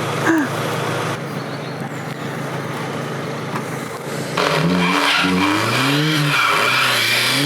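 Nissan Almera Tino's 1.8 engine running under noisy tyre and road sound, then revving up and down repeatedly from a little past halfway, louder, as the car is driven hard off-road.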